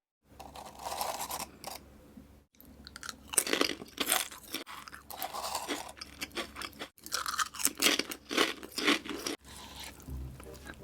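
Close-miked chewing of noodles: irregular wet mouth sounds and smacks, louder from about three seconds in.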